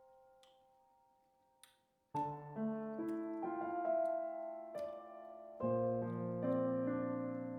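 Soft background piano music: a held note fades out, then a slow piano phrase of single notes and chords begins about two seconds in.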